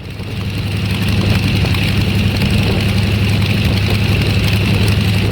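An engine running steadily at a constant speed, with a deep, even low hum.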